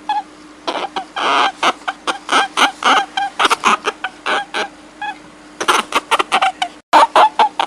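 A rapid series of short, sharp, squeaky animal calls, several a second, over a faint steady hum, with a brief dropout about seven seconds in.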